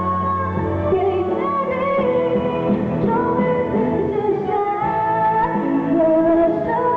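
A woman singing a slow pop ballad live, her held, gliding vocal lines over a steady instrumental backing.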